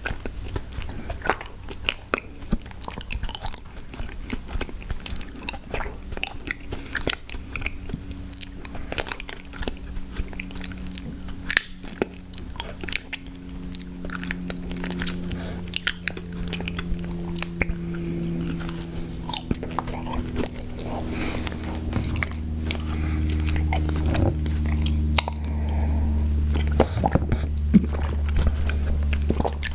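Close-miked mouth sounds of someone biting and chewing crunchy cookies: a steady stream of crisp crunches and clicks.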